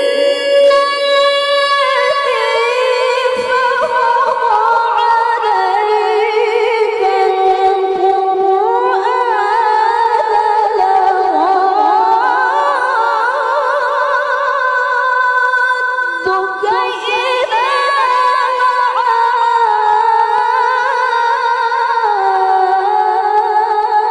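A woman's solo voice in Qur'anic recitation (tilawah), a cappella, holding long high melismatic notes that waver and glide between pitches.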